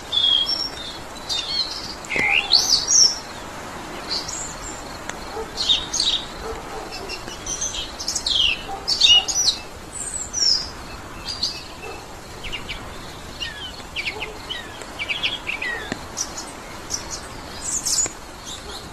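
Several birds chirping and singing, with many short notes and quick rising and falling whistles overlapping through the whole stretch, over a faint steady background hiss.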